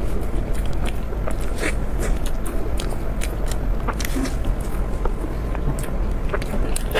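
Close-miked biting and chewing of food: a steady run of small, sharp crackles and clicks from the mouth, over a low steady hum.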